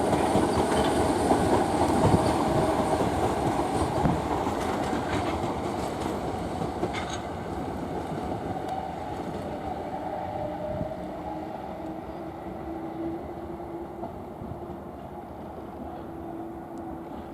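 A Class 455 electric multiple unit running past on the rails, with a few clicks of wheels over rail joints, then fading steadily as it draws away. A steady tone carries on in the second half.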